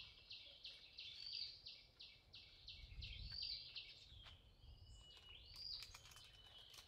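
Faint bird calls: a run of quick high chirps, about four a second, for the first three seconds, then a few single upswept calls over a thin high whistle, with a low background rumble throughout.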